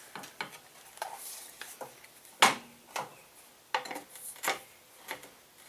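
Sharp metallic clicks and knocks as a router motor is handled in the clamp of an aluminium router lift. There are a handful of separate strikes, the loudest about two and a half seconds in.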